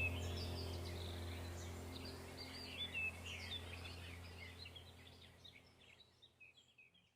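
Small birds chirping and twittering, many short calls over a steady low hum, the whole sound fading out gradually toward the end.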